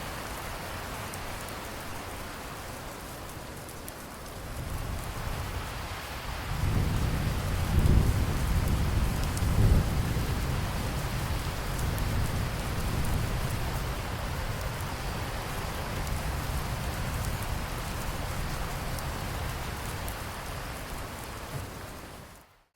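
Steady rain pattering, with a long roll of thunder that swells about five seconds in, peaks twice a few seconds later, and rumbles on under the rain. Near the end everything fades out quickly to silence.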